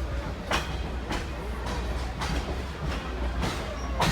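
Passenger rail car riding along the track with a steady low rumble, and a sharp click repeating a little under twice a second.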